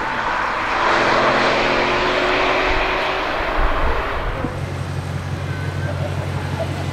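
Lexus RC-F Track Edition's 5.0-litre V8 pulling away, its exhaust and tyre noise fading over the first four seconds or so. After that comes a low, steady engine burble as the car rolls at low speed.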